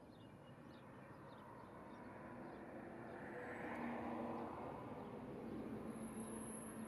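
A vehicle passing by outside: a broad engine and road noise that swells to its loudest about four seconds in and then stays up, with a thin high whine near the end.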